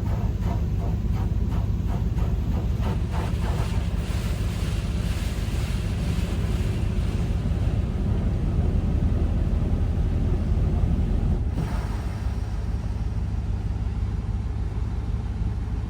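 D&S 5000 touch-free in-bay car wash running, its rotating spray wand blasting water onto a truck, heard from inside the cab as a steady rushing spray over a low rumble. The rush pulses a little early on and eases slightly about two-thirds of the way through.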